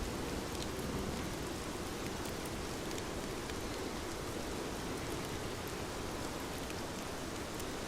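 Steady heavy rain, a dense even hiss of falling water, with faint scattered high ticks. A low thunder rumble dies away in the first second.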